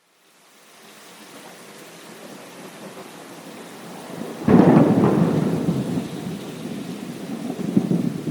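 Thunderstorm: steady rain fading in from silence, then a sudden loud thunderclap about halfway through that rumbles and dies away, with a second rumble swelling near the end.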